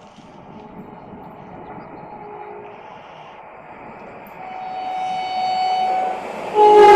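A Renfe train approaching, its running noise growing steadily louder. A steady horn note sounds about four seconds in for a second and a half, then a much louder horn blast starts near the end.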